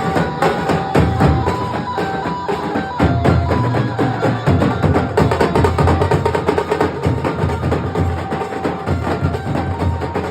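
Nasik dhol drumming: loud, dense, fast strokes on large barrel drums with a deep low end. A melody of held notes sounds above the drums.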